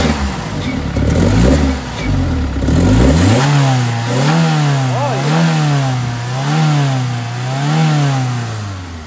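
Honda B18 DOHC VTEC four-cylinder engine revved by hand at the throttle linkage. It blips a few times unevenly, then rises and falls in about five even revs roughly a second apart.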